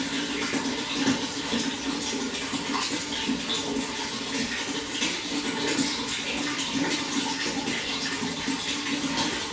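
Running water flowing steadily, a continuous rush with many small splashes and gurgles.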